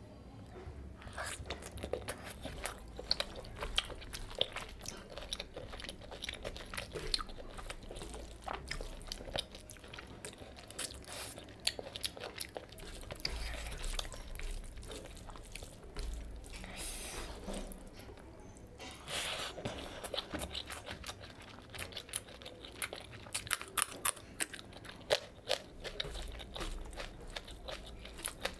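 Close-miked eating sounds: wet chewing and smacking of pork belly curry, with many sharp crunching clicks. Rice and curry squish as they are mixed by hand.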